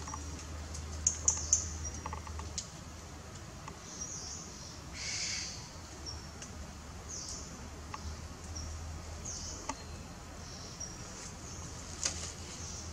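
Forest birds chirping: repeated short, very high chirps, with a longer, louder call about five seconds in. A few sharp clicks and a steady low hum sit beneath.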